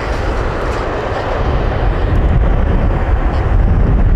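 Jet engines of a departing Boeing 777-200ER airliner at takeoff power: a loud, steady rumble whose low end grows stronger about halfway through.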